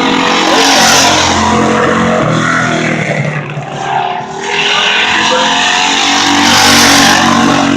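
Compact-class race car engines running at full throttle around the oval during qualifying laps. They are loudest as cars pass about a second in and again near the end, and dip in between.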